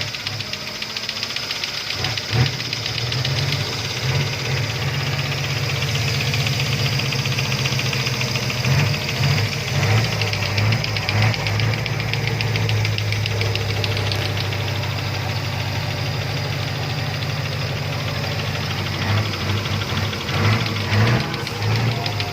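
Toyota Avanza's 3SZ four-cylinder engine running with a steady rapid knock, the revs rising briefly several times. The mechanic blames the knock on a connecting rod bent when water got into a cylinder through the throttle body.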